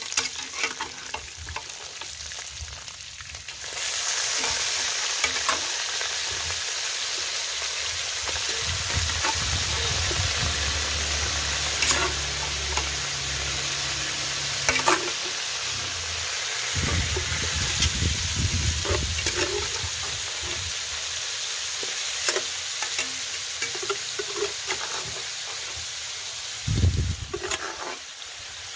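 Boiled goat meat being ladled into a hot wok of sautéing garlic and onion, frying with a steady sizzle that jumps louder about four seconds in and keeps on. The metal ladle clinks against the wok and pot now and then.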